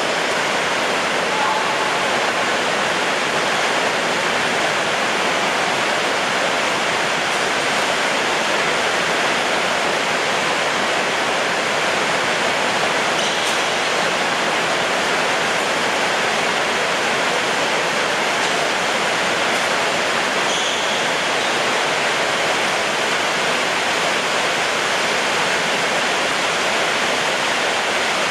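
Heavy rain pouring down, a steady, dense hiss that does not let up.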